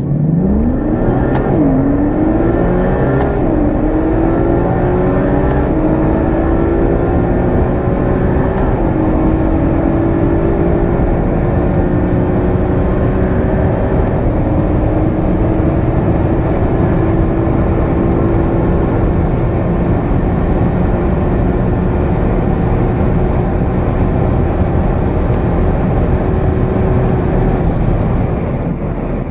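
A twin-turbocharged performance car accelerating flat out through the gears. The engine note climbs and drops back at each upshift: quick shifts about 1.5 and 3 seconds in, then longer pulls with shifts about 8 and 14 seconds in. After that the note rises only slowly and holds at high speed, easing off near the end.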